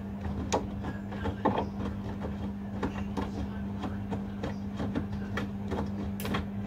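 Washing machines running mid-wash: a steady hum with irregular knocks and clicks as the drums tumble the load.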